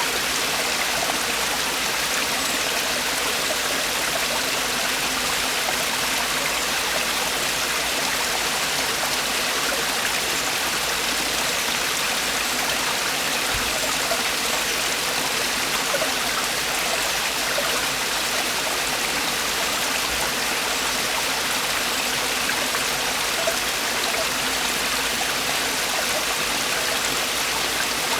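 Mountain stream water falling and splashing over rocks in a steady rush.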